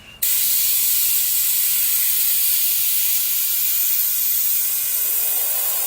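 Dual-action airbrush spraying thinned acrylic paint: a steady high hiss of air that starts suddenly just after the start.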